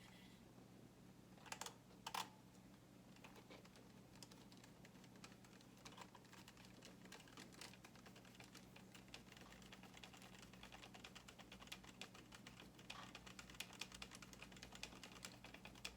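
Faint, scattered light clicks and taps of small parts being handled while working on an RC monster truck's front shocks, over a low steady hum. The clicks are a little clearer twice early on and come more often near the end.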